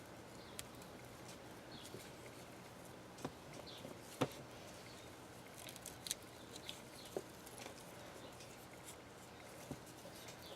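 Faint crafting handling sounds: scattered light clicks and taps with soft rustling as pieces of duct tape are pressed into place on a bundle of sticks and feathers.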